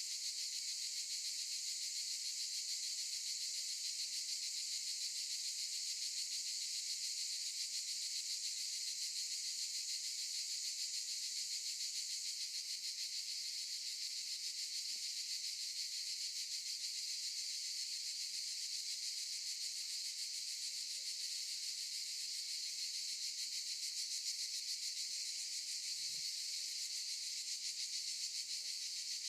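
Cicadas singing in a dense chorus, a steady high-pitched buzz that does not let up. A faint low thump about 26 seconds in.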